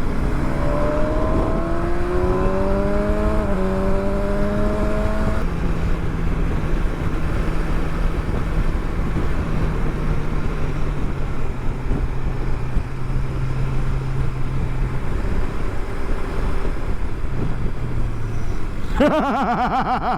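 Motorcycle engine pulling hard, its pitch rising through the first few seconds with a gear change about three and a half seconds in, then running steadily at cruising speed under heavy wind rumble. A brief warbling sound comes in near the end.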